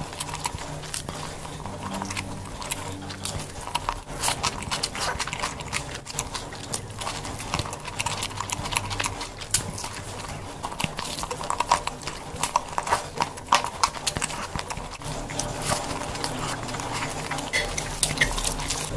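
Close-miked eating of chicken and biryani with the hands: chewing with a dense, irregular run of lip smacks and mouth clicks.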